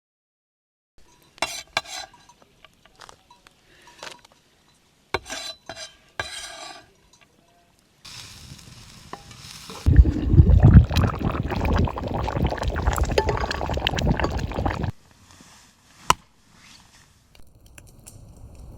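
Cooking utensils and cookware clinking and scraping, with a loud stretch of dense stirring and scraping noise lasting about five seconds midway.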